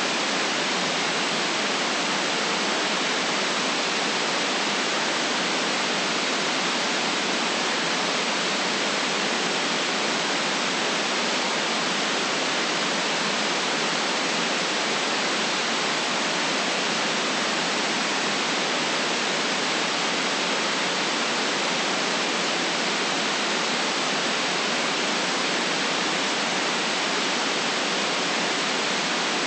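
Continuous artificial white noise: an even, unchanging hiss with no deep rumble beneath it.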